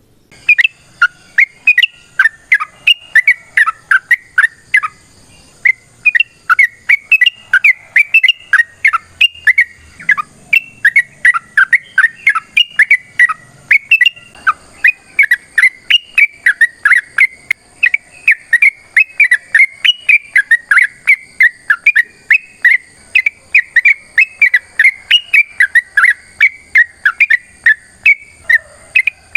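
Yellow-vented bulbul (trucukan) singing a long, fast run of short chirping notes, about four to five a second, with a brief pause about five seconds in.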